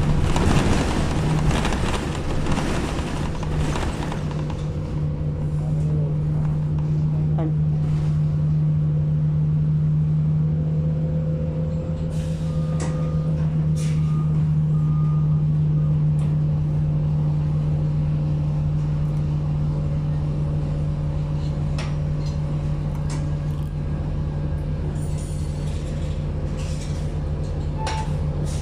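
Inside a moving city bus: the engine drone with a steady low hum over road noise. Three short high beeps sound a little before the middle.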